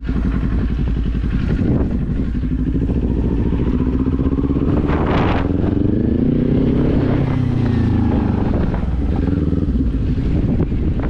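Kawasaki Z400 motorcycle's parallel-twin engine running under way, its note rising and falling in the middle as the throttle is worked, with wind buffeting the microphone.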